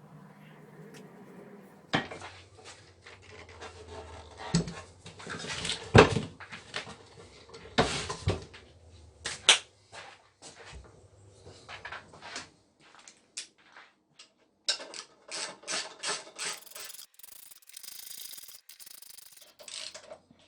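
Nuts on an outboard motor's gear case housing being tightened with hand tools: irregular metal clicks, knocks and scraping, with a run of quick, even clicks in the later part.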